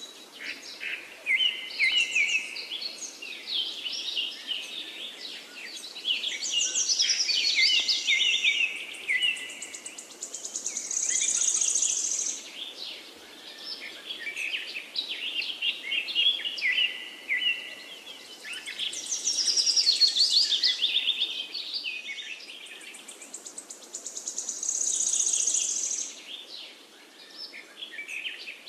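Forest bird chorus: several birds singing at once in overlapping chirps, whistled phrases and fast trills, with a faint steady hiss beneath.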